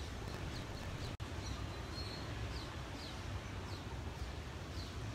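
A bird calling with repeated short, falling chirps, about one a second, over a low steady rumble. The sound drops out for an instant about a second in.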